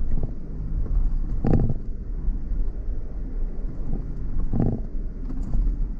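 Off-road vehicle driving slowly over a rough, stony track: steady low rumble of engine and tyres with some wind on the microphone, and two heavy thuds about three seconds apart as it jolts over bumps.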